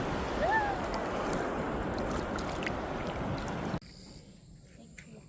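Sea waves and wind noise as a steady rushing, with a brief chirp near the start. It cuts off abruptly about four seconds in, leaving a quieter background with a steady high insect trill.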